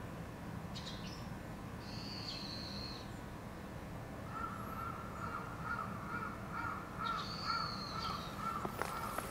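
Birds calling: two drawn-out high calls of about a second each, and from about halfway in a run of repeated lower-pitched calls.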